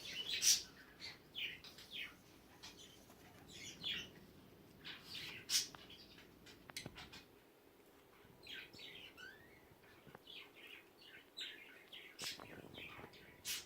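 Birds chirping: a string of short, high chirps, loose and irregular.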